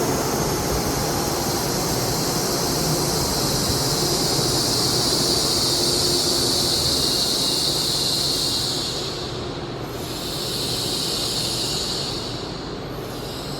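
Kamome shinkansen train at the station platform, a steady rolling and hissing noise that eases off about nine seconds in.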